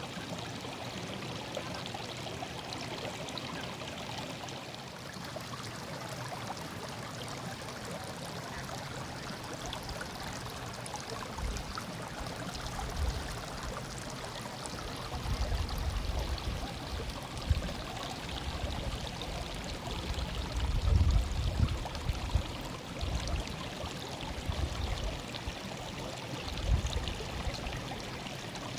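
A stream murmuring steadily. From a little under halfway through come irregular low rumbles, loudest about two-thirds of the way in.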